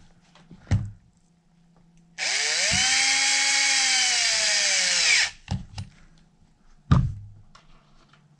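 Power drill/driver running a bolt of an RC wheel's bead-lock ring for about three seconds, its pitch rising at first and then sagging before it stops. A sharp knock sounds about a second in and another near the end.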